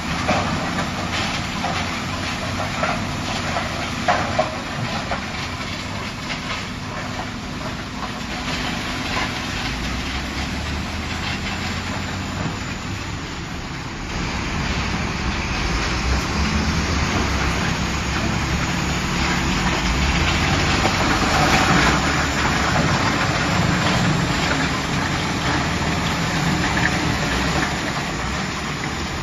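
Tracked mobile impact crusher working: a steady engine drone under a dense clatter of stone being crushed, the low drone getting louder about halfway through.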